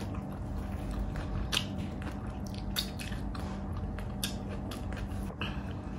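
Close-up eating sounds of a person chewing saucy pork bistek with her mouth, with irregular wet smacks and clicks. A faint steady hum sits underneath.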